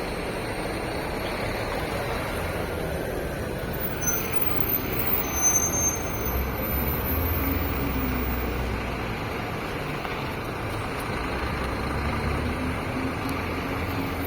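Diesel engine of a Scania K360 coach running, its low drone swelling and easing as the bus moves, with traffic noise around it. A run of short, sharp, louder noises comes about four to six seconds in.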